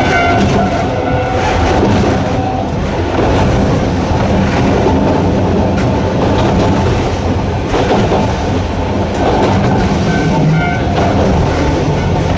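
Sangi Railway Hokusei Line narrow-gauge electric train running, its nose-suspended traction motors giving a steady hum over loud running noise, with occasional knocks from the wheels on the rails.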